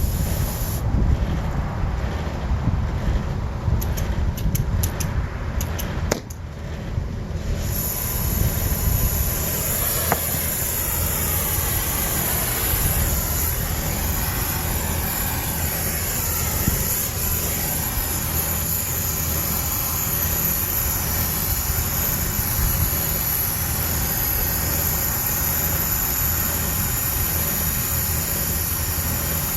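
A steady low rumble, with a few faint light clicks in the first seven seconds.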